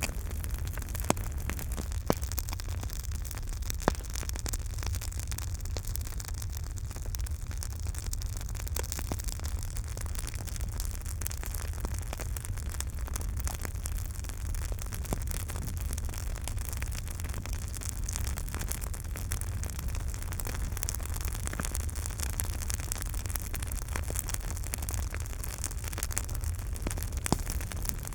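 Campfire crackling: a steady low rumble of burning wood with many small crackles and pops, and a few sharper pops in the first few seconds and again near the end.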